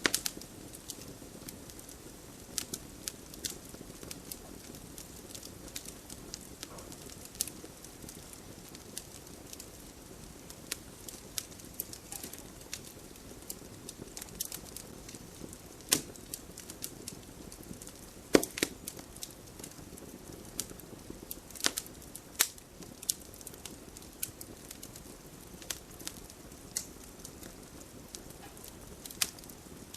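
Wood campfire crackling: irregular sharp pops and snaps over a low steady hiss, with a few louder snaps in the second half.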